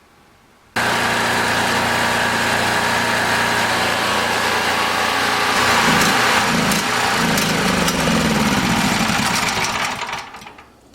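Portable generator's engine running steadily and loudly, then winding down and stopping near the end.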